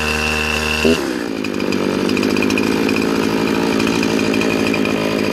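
Two-stroke chainsaw running. About a second in, its steady, even pitch gives way to a rougher, noisier sound.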